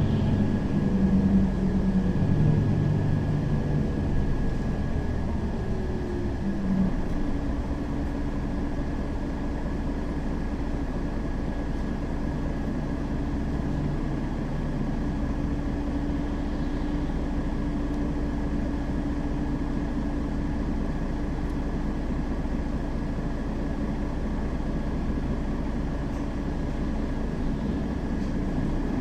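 Mercedes-Benz Citaro facelift city bus driving, heard inside the passenger cabin. The engine note shifts in pitch over the first several seconds, then holds one steady tone over constant road rumble.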